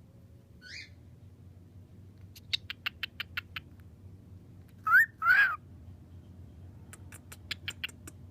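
Cockatiel giving two loud calls about five seconds in, the first sliding upward and the second rising and falling, after a faint short chirp. Two runs of quick, sharp clicks, about seven or eight a second, come before and after the calls.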